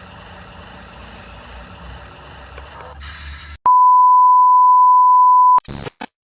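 A low, steady mechanical hum, then, a little past halfway, a loud pure electronic beep tone held for about two seconds before cutting off abruptly, followed by a few brief glitchy bursts.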